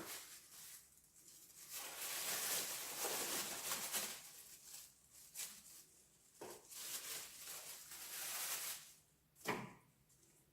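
A small scoop scraping and shovelling ash and charred debris out of a fireplace firebox: two long scrapes with short knocks between them and a sharper knock near the end.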